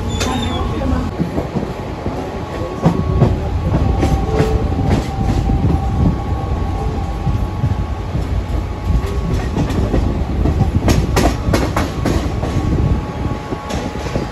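Mumbai suburban local electric train running, with a steady low rumble and hum and the clack of its wheels over rail joints, including a quick run of clacks a little after the middle.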